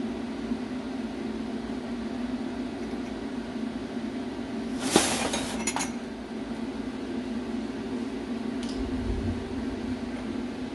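A steady mechanical hum, with a single sharp metallic clink that rings briefly about halfway through, a lighter tap just after it and a faint tick near the end, as metal parts are handled.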